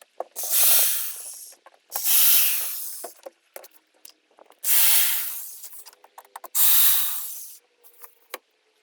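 Four loud hissing bursts, each starting suddenly and fading away over about a second, roughly two seconds apart.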